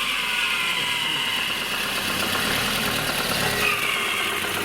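Lada Kalina engine idling with a steady high-pitched squeal from worn belt tensioner rollers; the mechanics judge the timing-belt tensioner roller the louder of the two, with the alternator belt tensioner roller also noisy.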